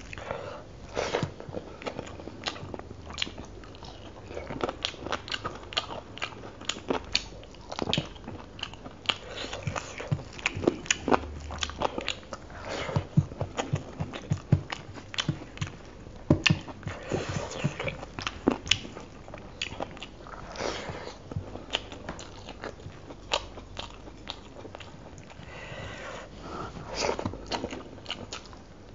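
Close-miked wet chewing and lip-smacking of a person eating rice with chicken curry by hand. There are many sharp, irregular clicks and smacks, thickest in the middle, along with softer squishing as the fingers work the saucy rice on a steel plate.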